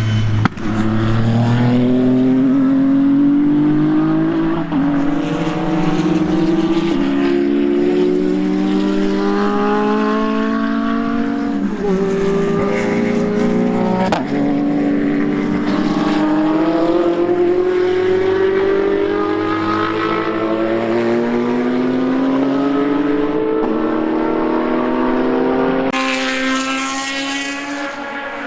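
Racing car engines at full throttle on a circuit, their pitch climbing steadily through the gears with quick drops at each upshift. Near the end a car comes closer and the sound turns sharper and brighter.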